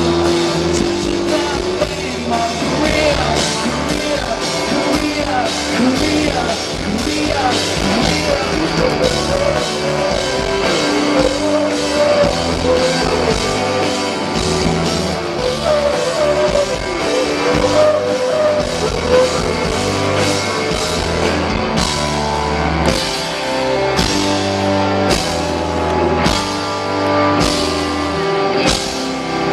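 Live rock band playing loudly, with electric guitars, bass, a drum kit and singing; the drum hits turn into a sharp, even beat in the last several seconds.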